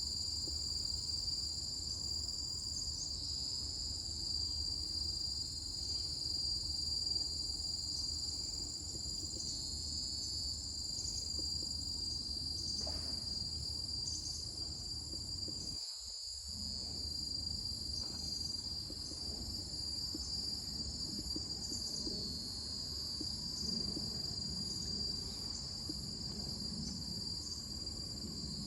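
A steady, high-pitched chorus of forest insects, two overlapping buzzing tones that run on without a break, over a low background rumble.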